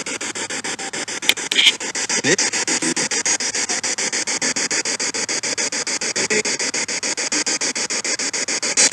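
Spirit box sweeping through radio stations: a loud, choppy hiss cut about eight times a second, with a couple of brief louder bursts between one and two seconds in.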